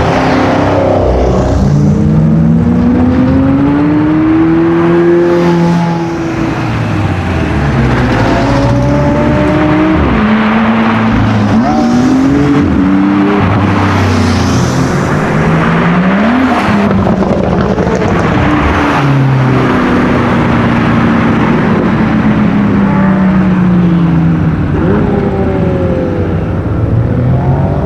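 High-performance car engines accelerating and passing one after another. Their notes overlap, climbing through the revs and dropping sharply at gear changes, then falling away as each car goes by.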